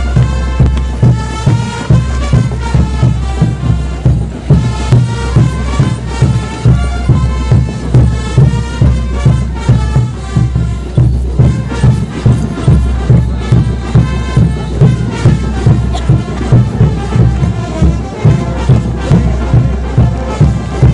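Brass band playing diablada music: trumpets and trombones over a bass drum beating steadily about twice a second.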